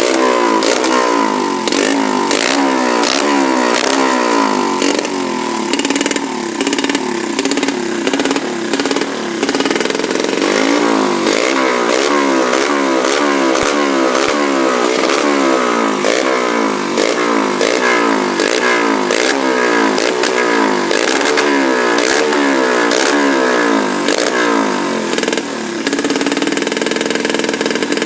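Underbone motorcycle's single-cylinder engine running through a galvanized-steel racing exhaust, revved over and over in quick throttle blips. Each blip is a rising pitch that falls back. Near the end it settles to a steady note.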